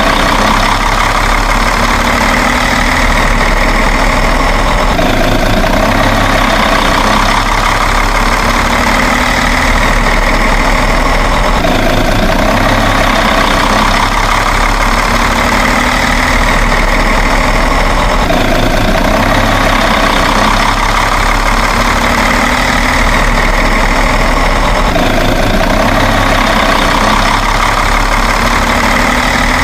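Truck engine running steadily at idle, the same stretch of sound repeating every six or seven seconds like a loop.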